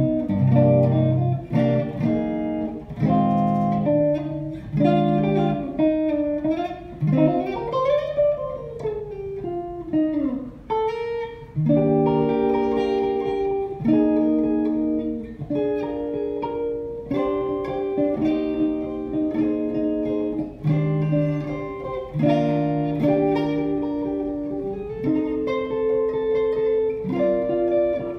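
1956 Fender Telecaster electric guitar played, a run of chords and picked single notes. About a quarter of the way in, several notes are bent up and down in pitch.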